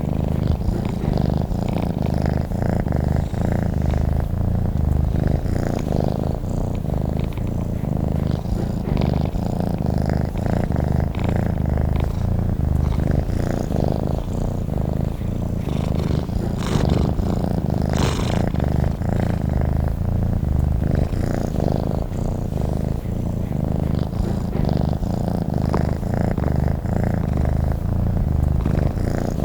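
Domestic cat purring steadily, a continuous low rumble of rapid fine pulses.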